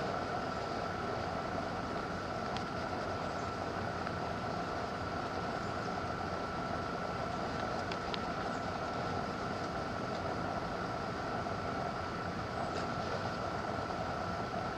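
Steady mechanical hum with a constant high whine over an even hiss, unchanging throughout.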